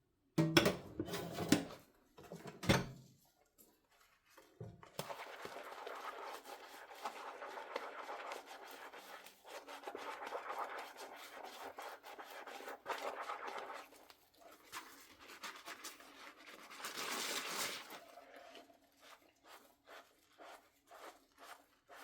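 Dishes being washed by hand: a few sharp knocks of dishware in the first few seconds, then a long stretch of scrubbing, a scratchy rubbing on a dish that swells near the end, followed by light taps.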